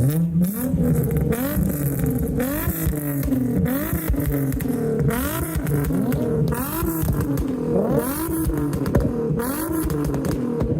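Car engines revved hard over and over, the pitch climbing and dropping back about once a second.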